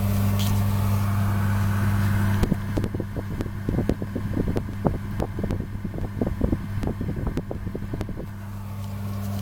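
Steady electric hum of the waste-oil stove's air blower, with a run of irregular short clicks and crackles in the middle.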